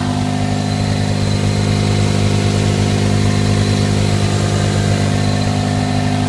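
1995 Toyota Corolla's 1.6-litre 4A-FE double-overhead-cam four-cylinder engine idling steadily.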